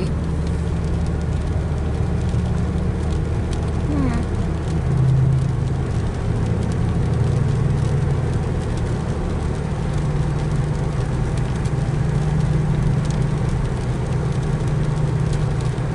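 Car interior on the move: steady engine hum and road noise with an even hiss of tyres on a rain-soaked road. The engine note shifts about four seconds in and again about ten seconds in as the speed changes.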